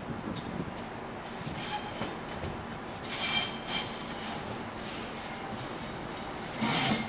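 Sydney electric suburban train approaching the station slowly over the points, with a steady rumble of wheels on rail. There are brief high-pitched wheel squeals about three seconds in, and a louder screeching hiss near the end.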